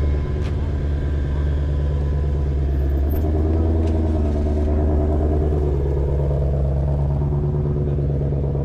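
A car engine running at low speed close by, a steady low rumble with no change in pace.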